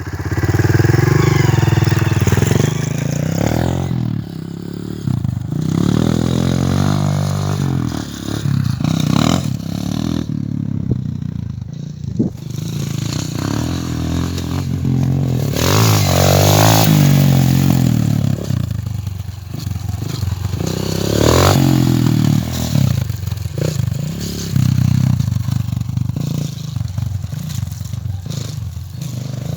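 A 230 cc dirt bike's engine running on the move, its pitch rising and falling over and over as it revs up and eases off.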